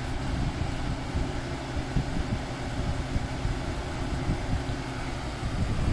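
Whirlpool window air conditioner running: a steady rush of air from its fan over a low, even hum.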